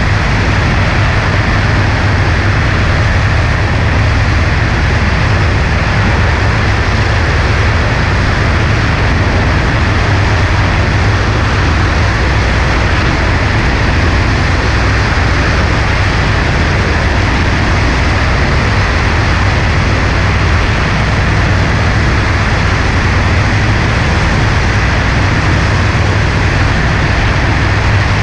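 Cessna 140A's engine and propeller running at a steady drone, with heavy wind rush over the aircraft; no change in pitch or level.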